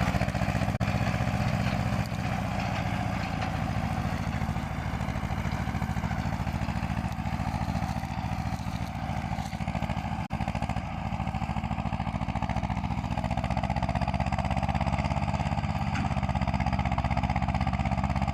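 Ursus C-330 tractor's two-cylinder diesel engine running steadily.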